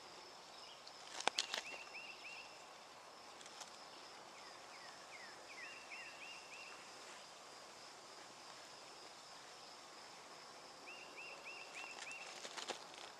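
A woodland songbird repeating a quick run of short down-slurred whistled notes three times, over a thin steady high tone. A sharp click or crunch comes shortly after the start and another near the end.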